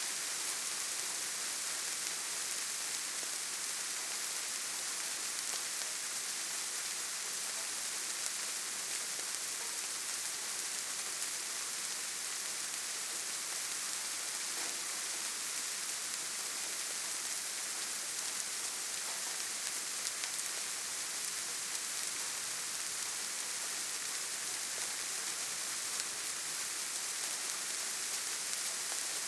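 Steady forest rain: an even, high hiss of rainfall with faint scattered drop ticks.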